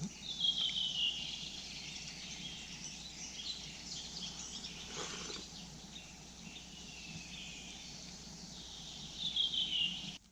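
Outdoor woodland ambience with a bird calling twice, each a high whistle falling in pitch over about a second, once near the start and once near the end, over a steady faint hiss.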